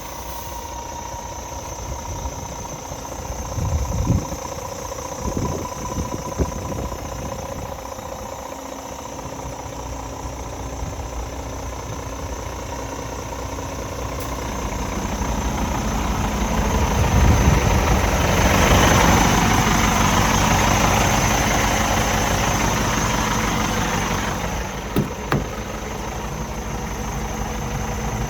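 Scania R450 truck's diesel engine idling steadily. It grows louder for several seconds midway, then settles again, with a few short knocks early on and again near the end.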